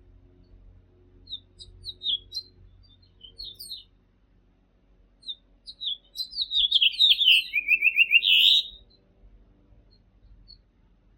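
A finch singing: scattered short chirps, then a louder song phrase that falls in pitch into a quick trill and ends with a short flourish.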